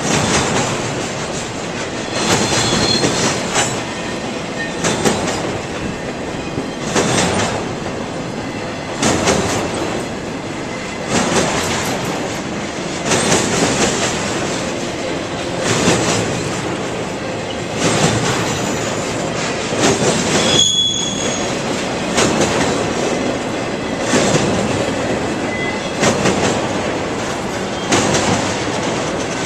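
Railroad cars of a train rolling past, their wheels clattering in a repeating rhythm with a loud surge about every one to two seconds, and a couple of brief high wheel squeals.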